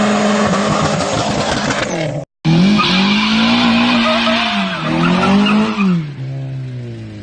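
Car engine revving up and down in repeated swells while the tyres screech, as in a burnout or donuts. The sound drops out for a moment about two seconds in, where two clips are joined.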